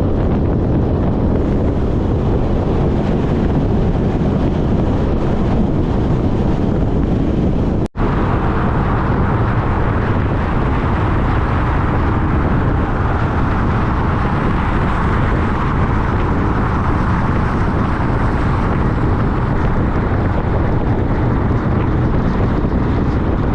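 Wind rushing over the microphone of a moving Honda CTX1300 motorcycle, with the engine running underneath at riding speed. The sound cuts out for an instant about eight seconds in.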